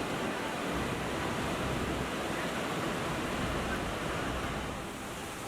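Steady rushing noise of the Devil's Throat, the largest waterfall of Iguazu Falls, as water plunges into the canyon; the level sags a little near the end.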